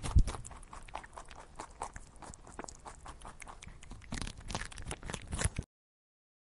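Rabbit nibbling and chewing grass: a quick, uneven run of small crunching clicks, with one louder low thump just after the start. It cuts off abruptly a second before the end.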